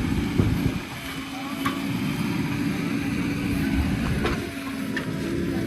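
Heavy diesel engine running steadily, with a few sharp knocks.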